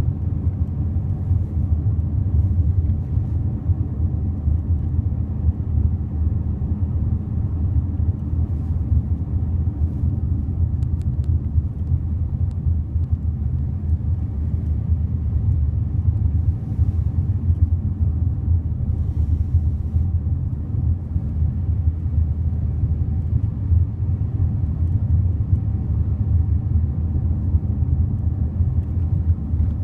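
Cabin noise of a 2006 Honda Elysion minivan on the move: a steady low road and engine rumble, with a few faint clicks between about 9 and 19 seconds in. These are the sliding door's recurring rattle, which Honda attributes to age-related wear it says cannot be fixed.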